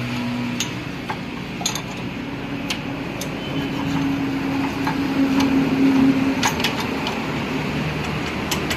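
Metal tools and parts clinking and tapping at irregular moments, a dozen or so sharp clicks over a steady background hiss, with a faint hum in the middle.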